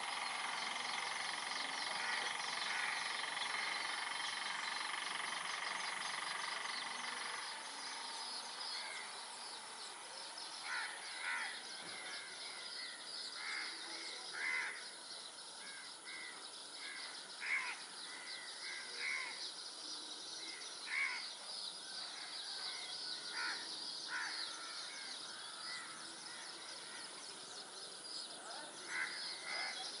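Birds calling in short repeated notes, one every second or two from about ten seconds in, over a steady high-pitched hiss of marsh ambience.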